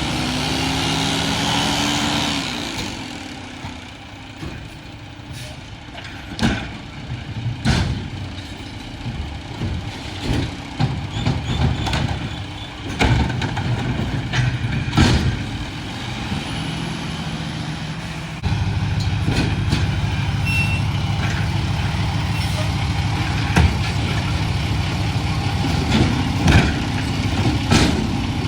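Mack LR garbage truck with a McNeilus body, its diesel engine running, with sharp knocks and clanks scattered throughout. About two-thirds of the way in, the engine steps up to a louder, steady run.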